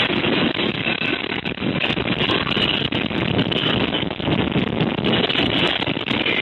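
Building rumbling and rattling as an earthquake shakes it: a steady loud rumble with many small clatters and knocks.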